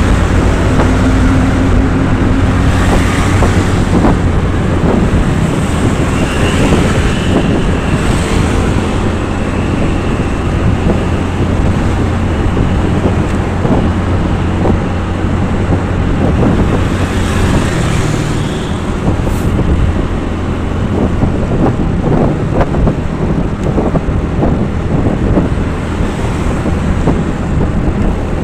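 A road vehicle running along, with steady engine and road noise and wind buffeting the microphone.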